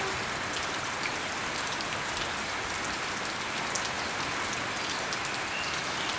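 Steady rain falling: an even hiss made up of many small drops.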